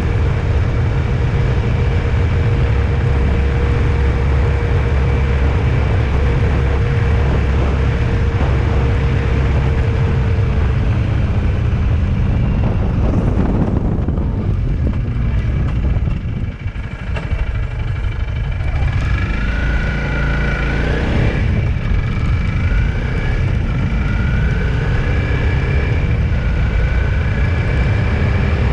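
Road vehicle driving, with steady engine and road rumble. The noise eases off briefly past the middle, then the engine note rises as it picks up speed again.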